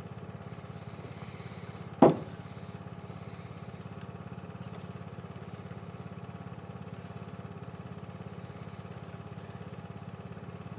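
Small engine running steadily with an even pulse. A single sharp knock about two seconds in.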